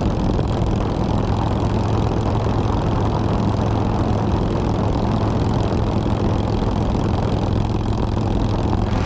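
Motorcycle engine running steadily at a constant speed, an even hum under rushing road and wind noise.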